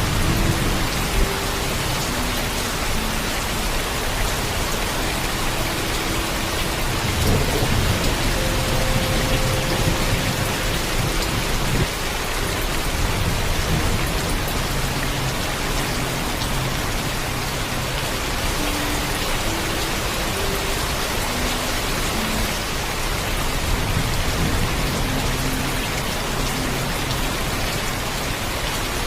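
Heavy, steady rainfall, with low rolls of thunder swelling about seven seconds in and again near the end.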